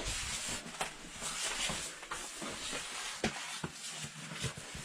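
Scattered scuffs and light knocks of a person clambering through a cave entrance, over a steady faint hiss.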